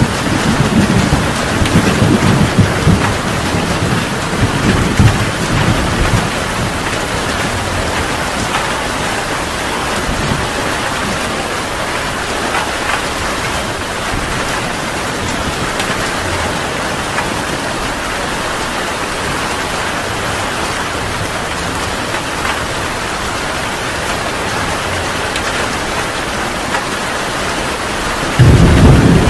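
Heavy rain falling steadily in a thunderstorm. Rolling thunder dies away over the first several seconds, and a loud thunder rumble starts suddenly near the end.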